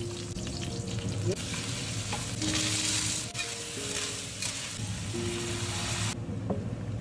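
Food sizzling as it is stir-fried in a hot pan. The sizzle swells for a moment about two and a half seconds in and cuts off abruptly near the end, over soft background music.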